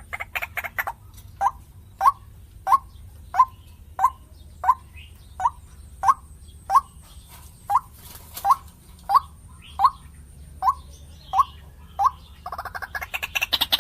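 White-breasted waterhen (ruak-ruak) calling: a rapid loud chorus breaks off about a second in, followed by a slow series of short single call notes, about one and a half per second. The rapid chorus starts again near the end.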